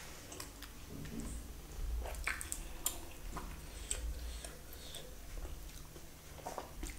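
A person chewing pieces of spicy chicken curry, with scattered short wet clicks and smacks of mouth and fingers.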